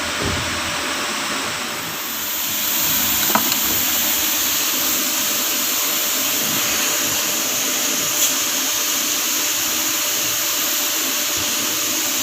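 Running engine's front accessory belt drive with a steady whine under a rushing hiss, which the mechanic traces to a worn idler pulley. The noise grows louder about two seconds in, with a couple of faint clicks.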